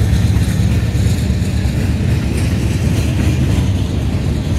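CSX freight train rolling past at close range: a steady, loud, low rumble of locomotive and cars on the rails.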